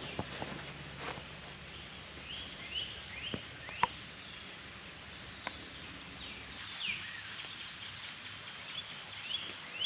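Insects buzzing in two high-pitched stretches of about two seconds each, with short downward-sliding bird calls repeated throughout. A few soft knocks, like steps on the trail, are mixed in.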